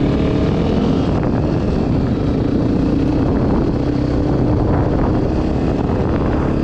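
Dirt bike engine running at a fairly steady pitch while riding, with wind noise on the microphone.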